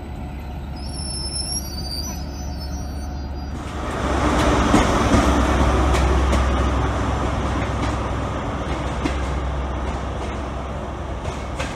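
A Greater Anglia Class 755 train standing at a platform gives way, about three and a half seconds in, to a sudden louder rumble. That louder sound is a GWR High Speed Train's Class 43 diesel power car arriving along a platform, its engine and wheels loudest just after the change and slowly easing off.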